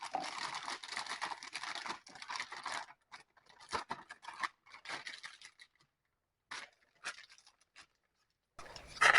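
Plastic bag of freshly mixed epoxy being handled: rustling and crinkling with scratchy scrapes, dense for about three seconds, then in short broken bursts.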